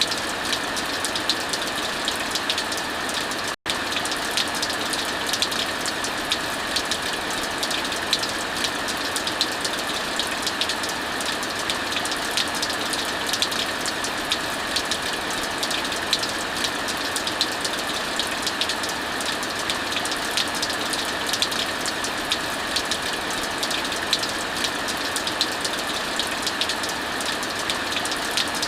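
Heavy rain falling steadily, mixed with a wood fire crackling in many small, quick pops. The sound cuts out completely for an instant about three and a half seconds in.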